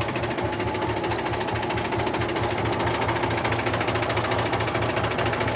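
Mahindra 265 DI tractor's three-cylinder diesel engine running steadily with a rapid, even clatter.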